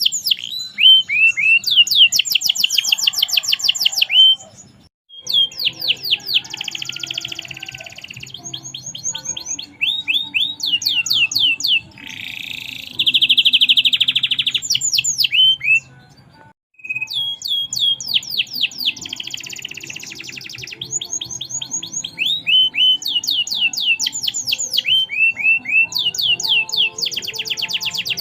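Domestic canary singing a long, loud song of repeated down-sweeping notes and fast rolling trills, with a buzzy rattle midway, broken by two short pauses.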